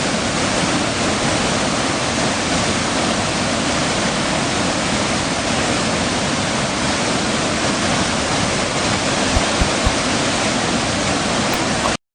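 Steady, loud rushing noise like falling water, even and unbroken, with a couple of faint low thumps near the end before it cuts off suddenly.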